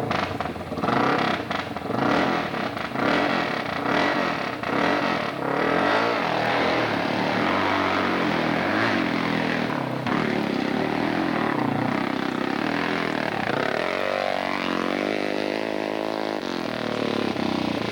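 Hill-climb motorcycle engine revving hard. Its pitch rises and falls again and again as the throttle is worked, with short, choppy throttle blips in the first few seconds.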